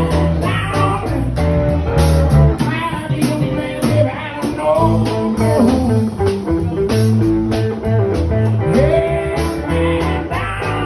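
Blues band playing an instrumental passage: a lead guitar with bent notes over a steady bass line and drums.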